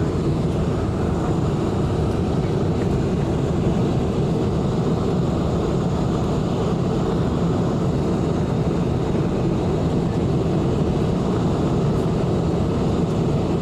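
Steady cabin noise of a Boeing 747 airliner: engine and airflow noise heard inside the passenger cabin, a constant low rumble with no changes.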